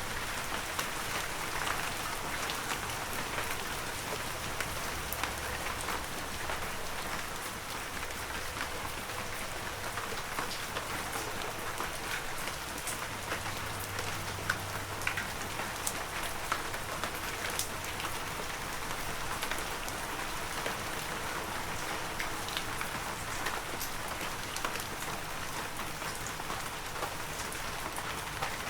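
Steady heavy rain falling, a dense hiss full of fine pattering drop impacts.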